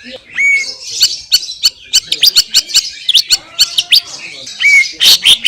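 Green leafbird (cucak ijo) singing a fast, varied song of sharp chirps and quick sweeping notes, broken twice by a short curved whistle.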